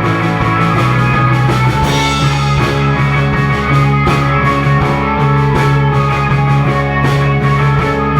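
Live indie rock band playing an instrumental passage on electric guitars, bass guitar and drum kit, the bass stepping to a lower note about a second in and a cymbal crash about two seconds in.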